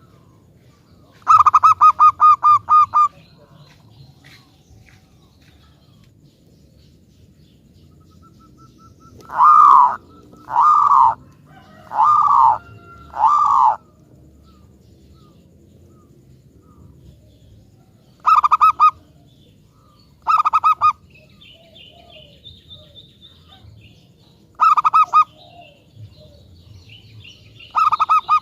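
Zebra dove (perkutut) cooing: a quick rattling run of notes about a second in, then four separate drawn-out coos, and several short phrases later on.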